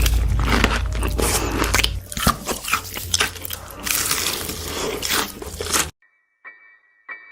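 Loud crunching bites and chewing of crisp food, with a low rumble under the first two seconds. The sound cuts off abruptly near the end, leaving a few faint clicks.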